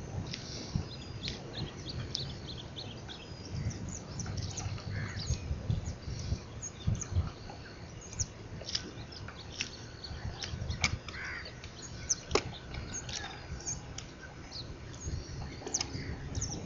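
Wild birds chirping and calling, many short calls scattered throughout, over a steady low rumble.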